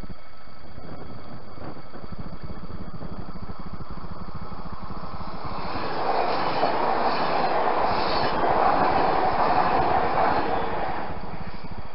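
SNCF ZTER Z 21500 electric multiple unit passing at speed: a rush of wheels on rail that swells from about halfway in, is loudest a little later, and stops abruptly about a second before the end, over a steady low rumble.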